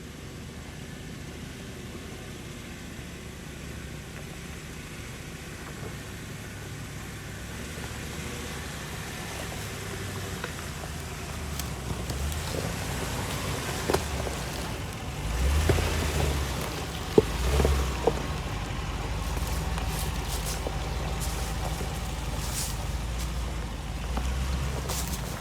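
Full-size 4x4 pickup truck's gas V8 running under load off-road, getting steadily louder, with a few sharp knocks about halfway through and just after.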